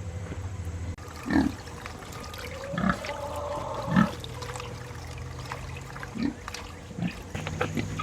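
Kunekune pigs grunting: a handful of short, low grunts spaced irregularly, over a steady low engine-like hum.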